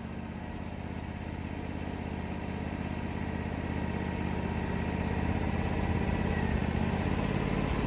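Engine of a portable sawmill running steadily, growing slightly louder over the first six seconds.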